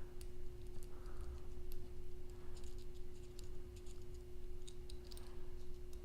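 Scattered light clicks and ticks of small metal parts being handled as screws and T-nuts on a Creality Ender 3 belt tensioner part are loosened, over a faint steady hum.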